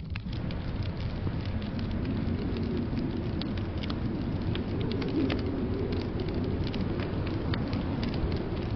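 Wood fire crackling in a fireplace, many small irregular pops and snaps over a steady low rumble.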